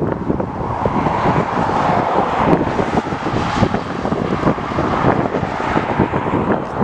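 Airliner engine noise from an aircraft moving on or near the runway, partly masked by wind buffeting the microphone.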